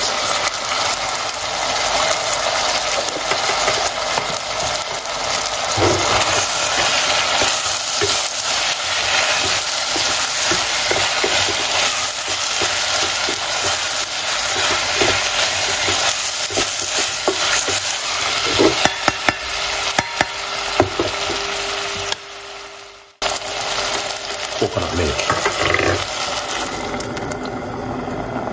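Diced vegetables and spices sizzling as they fry in a stainless steel pot, with a wooden spoon scraping and knocking against the pot as they are stirred.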